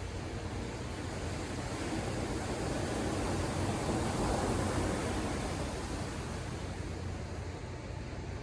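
Ocean surf: a wave breaking and washing in, the rush swelling to a peak about halfway through and then receding.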